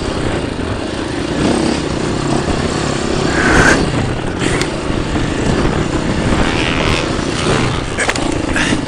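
Dirt bike engine running continuously, rising to a louder surge about three and a half seconds in, with a few brief knocks.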